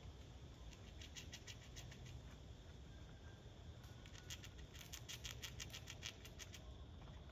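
Faint runs of quick, small dry clicks from a small rodent gnawing, one spell about a second in and a longer one from about four seconds in.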